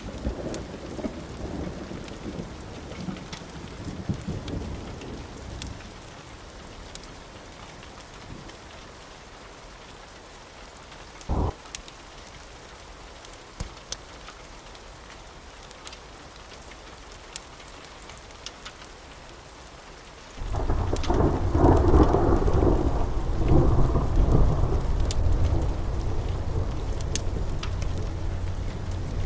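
Steady rain with thunder: a rumble dies away over the first few seconds, then a loud new roll of thunder breaks in about two-thirds through and keeps rumbling. A single sharp crack sounds near the middle.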